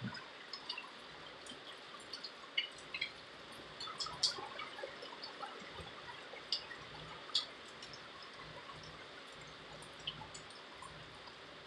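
Scattered raindrops dripping and ticking irregularly, a few louder drops standing out, over a faint steady hiss of wind and rain.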